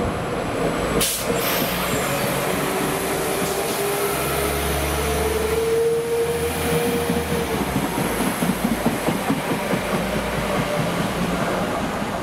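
Diesel train running through the station with a steady rumble and a sustained whine that rises a little in pitch midway. There is a single sharp clack about a second in.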